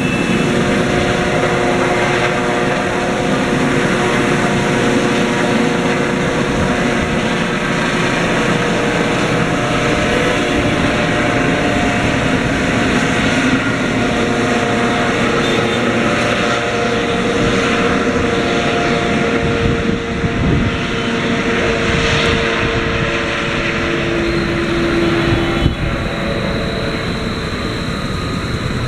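Helicopter running loudly during take-off, a steady engine and rotor noise with tones that slowly shift in pitch; it eases off slightly near the end.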